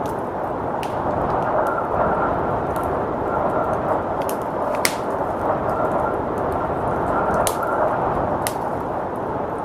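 Wood fire crackling in a fireplace, with a few sharp pops (the loudest about five seconds in), over the steady rush of blizzard wind.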